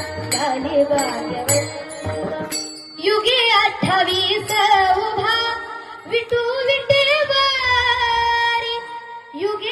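A woman sings a Marathi devotional song to Vitthal in long, ornamented held notes over drum and percussion with a steady beat. The first three seconds or so are the instruments alone.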